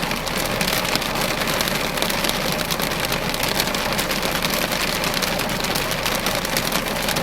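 Hailstorm: hailstones and rain pelting down in a dense, steady clatter of countless small impacts.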